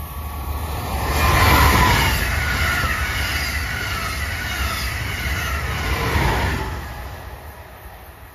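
Amtrak Acela Express trainset passing close by on electrified track: the rush of wheels on rail swells as the lead power car goes by about a second and a half in, holds steady as the coaches pass, and rises again as the rear power car passes around six seconds in, then fades.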